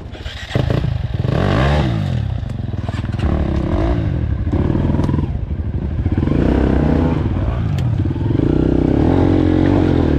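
Four-stroke dirt bike engine ticking over, then revved hard about half a second in and held at high revs that rise and fall repeatedly as the bike is worked up a steep, difficult climb.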